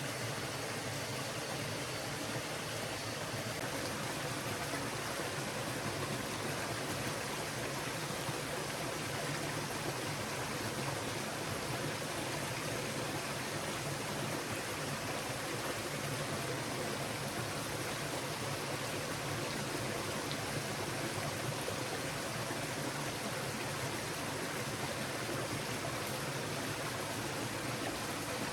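Steady rushing of a flowing forest stream, an even wash of water noise with no separate events.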